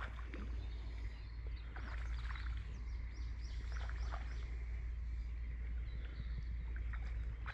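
Birds chirping outdoors, with a quick run of high chirps about three seconds in, over a low steady rumble and a few soft clicks.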